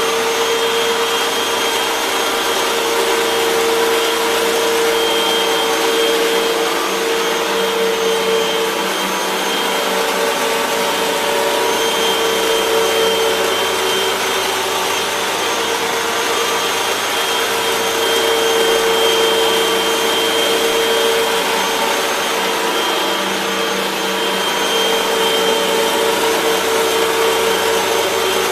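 Hoover WindTunnel 3 Pro Pet upright bagless vacuum cleaner running: a steady motor whine over a rush of air, its loudness swelling and dipping a little.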